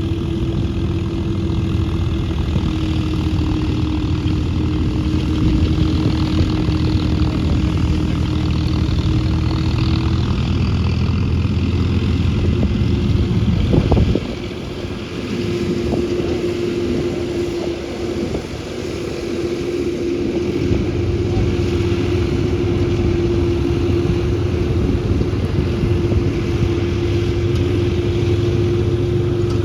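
John Deere tractor's diesel engine running steadily under load while it drives a straw reaper (tudi machine), with a steady hum from the machine over the engine. About halfway through there is a short knock, the sound drops for a few seconds, then builds back to a steady run.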